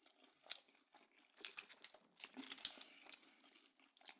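Faint close-up chewing of a mouthful of soup-soaked bread and beef cheek, a scatter of soft clicks and smacks.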